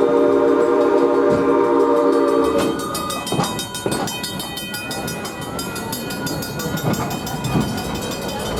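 The steam whistle of Ventura County Railway No. 2, a 1922 Baldwin 2-6-2, sounds a long chord of several tones and cuts off about two and a half seconds in. After that comes the rumble of the rolling train, with wheels clicking over rail joints.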